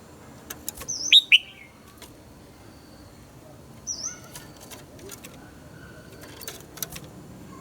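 Red-whiskered bulbul singing: a short burst of loud whistled notes falling in pitch about a second in, then a quieter brief phrase around four seconds, with scattered sharp clicks between.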